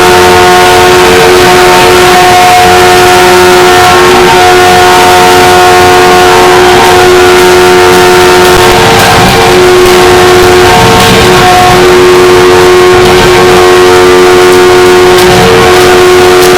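Arena hockey goal horn blaring continuously, very loud, over the noise of the crowd, sounding for an overtime series-winning goal.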